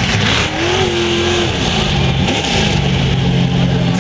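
Monster truck's engine revving: its pitch climbs about half a second in, falls back after about a second and a half, then holds steady near the end.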